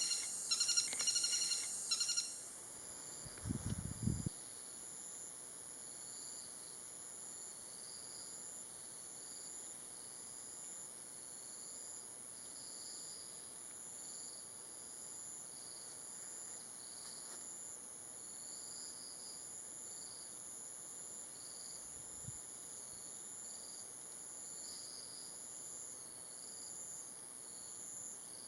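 Tropical forest insect chorus: a steady, high-pitched drone with chirping over it. In the first two seconds a greater flameback woodpecker gives a loud, rapid series of harsh notes. A few seconds in there is a low thump, and another, faint one comes later.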